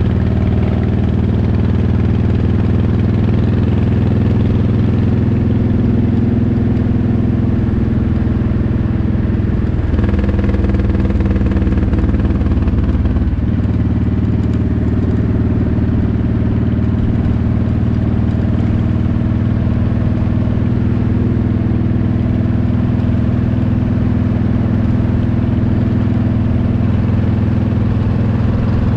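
Motorcycle engine running steadily while riding along a highway, its engine note shifting briefly about ten seconds in before settling back.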